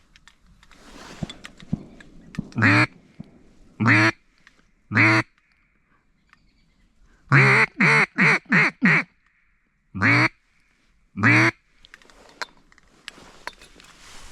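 Loud mallard-style quacks blown on a hunter's duck call: three single quacks, then a quick run of five, then two more single quacks. Faint rustling of movement in the blind before and after.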